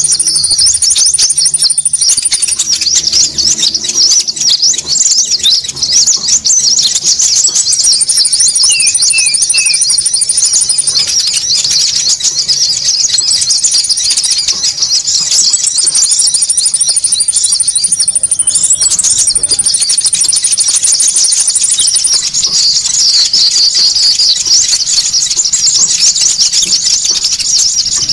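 Lure-call recording of konin birds chattering noisily: a dense, rapid stream of high chirps with no break. A fast buzzing trill above it comes and goes in spells of a few seconds. A few short falling notes sound about nine seconds in.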